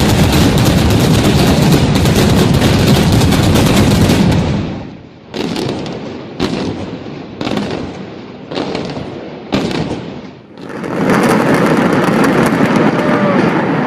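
Building demolition explosive charges going off: a dense, rapid crackle of detonations with a heavy rumble, then five separate sharp blasts about a second apart, each fading away. Near the end, dense crackling and rumbling builds up again.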